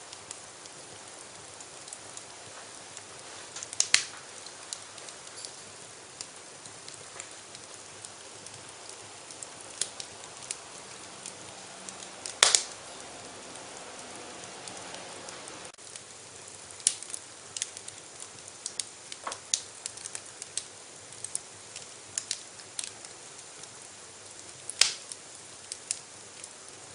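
Wood fire crackling in a fireplace: a steady soft hiss with irregular sharp pops and snaps, a few of them much louder than the rest.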